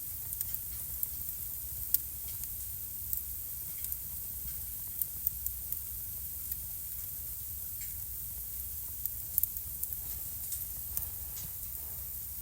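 Wood fire burning in a fireplace: a steady low rumble and hiss with irregular sharp crackles and pops, the loudest pops about two seconds in and again about nine seconds in.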